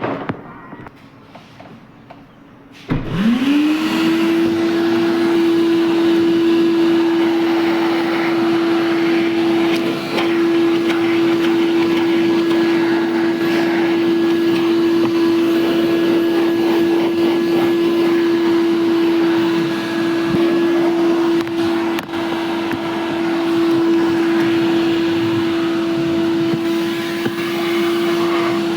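A car-wash machine's electric motor starts about three seconds in, spins up within a second to a steady high hum, and runs on at a constant pitch with a hiss around it.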